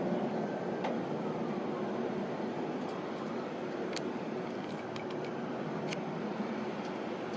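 Steady low background rumble with a few faint sharp clicks.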